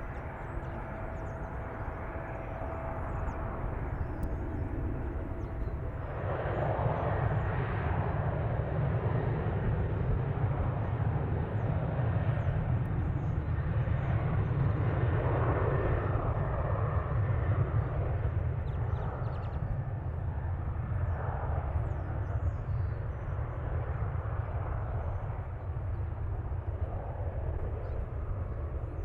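Jet airliner's engines rumbling as it passes, swelling from about six seconds in, loudest around the middle and easing toward the end.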